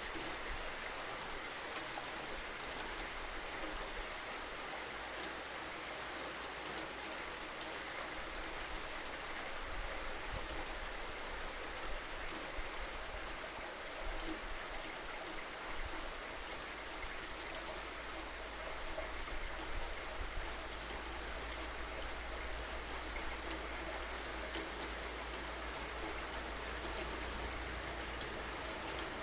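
Steady rainfall, an even hiss of rain on surfaces, with a low rumble underneath that swells for stretches in the middle and toward the end.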